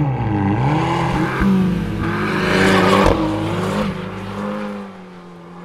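Abarth 695 Biposto's turbocharged four-cylinder engine revving, its pitch dipping and rising with loud rushes of exhaust noise and a sharp crack about three seconds in. It then settles to a steadier, fading note.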